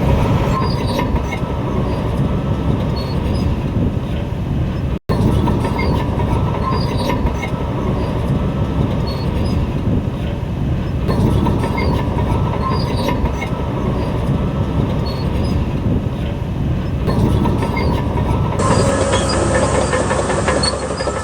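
Shantui DH17 crawler bulldozer at work: its diesel engine runs steadily under load while the steel tracks clank and squeal.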